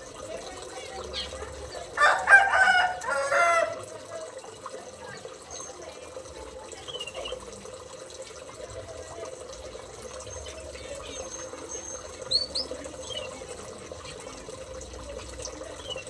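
A rooster crows once, a loud call of under two seconds about two seconds in. Later a few short high bird chirps sound faintly over a steady hiss.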